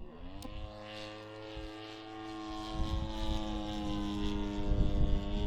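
RC Piper Cub's 26cc two-stroke gas engine (G26) turning an 18x8 propeller, its drone rising in pitch as the throttle comes up just after the start and then holding steady. Wind buffets the microphone from about halfway through.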